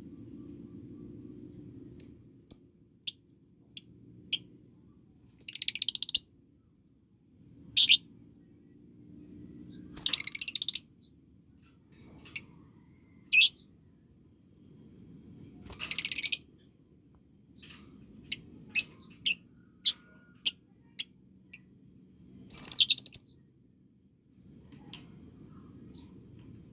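Lovebirds calling: sharp, high single chirps scattered throughout, broken by four rapid chattering bursts of about a second each (the lovebird "ngekek" trill), over a faint low hum.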